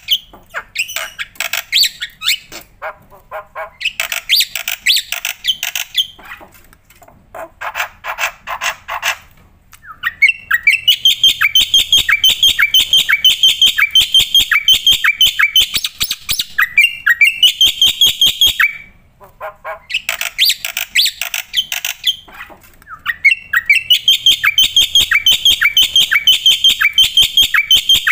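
Black-winged starling singing hard: long runs of rapid, harsh chattering notes repeated many times a second, broken by two brief pauses.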